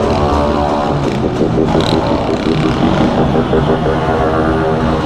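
Several motorcycle engines running at once, their pitches rising and falling as they idle and rev.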